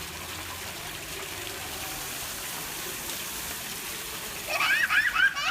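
Fountain water running and splashing steadily. About four and a half seconds in, a child's high-pitched voice cries out loudly over it.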